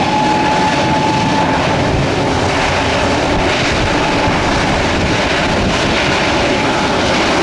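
Jet airliner engines running loud and close: a steady rush of noise, with a high whine that fades out about a second in.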